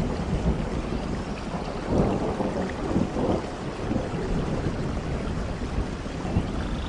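Steady rain with thunder rumbling, the rumble swelling about two seconds in.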